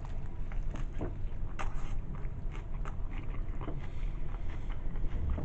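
A person chewing a Subway sandwich close to the microphone, with wet mouth smacks and small clicks, over a steady low rumble.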